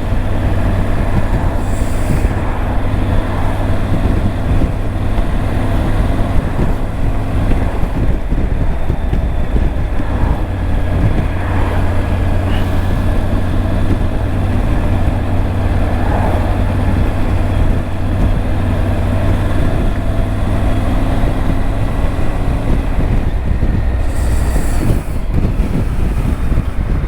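Triumph Tiger 900's three-cylinder engine running at a steady cruise, with heavy wind rumble on the helmet microphone.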